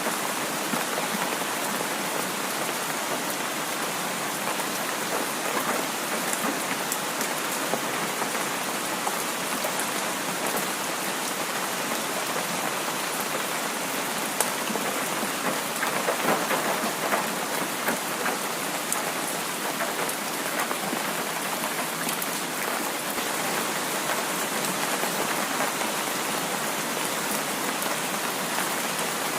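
Heavy rain falling steadily: a dense, even patter with the ticks of single drops through it, swelling slightly about halfway through.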